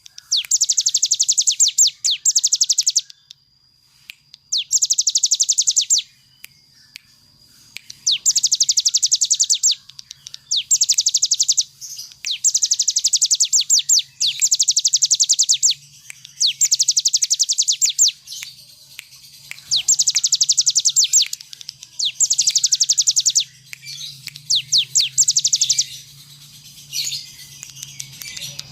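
Ciblek gunung (a prinia) singing its rapid drilling 'ngebren' trill: burst after burst of very fast, high repeated notes, each a second or two long with short pauses between. A faint low hum runs underneath.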